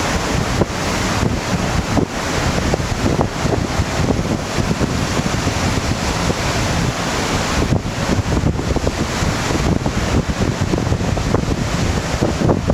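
Strong gusty wind of an approaching typhoon buffeting the microphone, over waves surging and breaking in a harbour.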